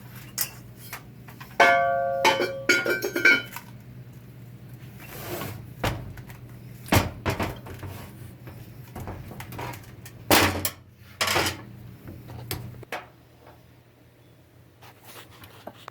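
Steel tools and parts clinking and knocking on a workbench. A ringing metallic clink comes about a second and a half in, a few lighter clinks follow, and then several sharp knocks come at intervals.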